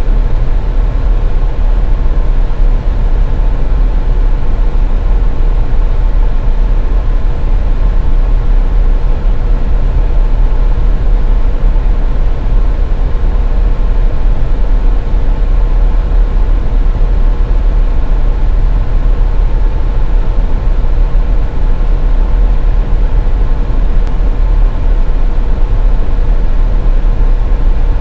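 A car driving, with steady, loud low road-and-engine rumble and a faint steady hum above it.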